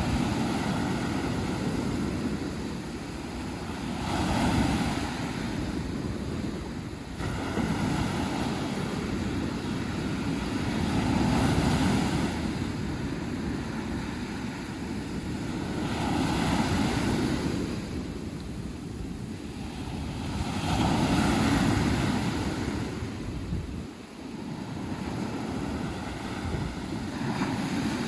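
Sea waves breaking on a beach, the surf swelling and fading every few seconds, with wind buffeting the microphone.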